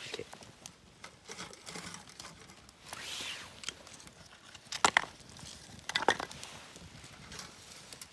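Rustling and crinkling handling noises, with two clusters of sharp clicks or knocks about five and six seconds in.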